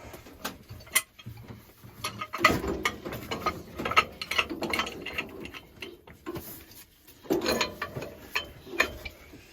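Threaded steam-pipe fittings being worked with a wrench while the boiler's header is assembled: irregular metallic clicking and ratcheting in short bursts.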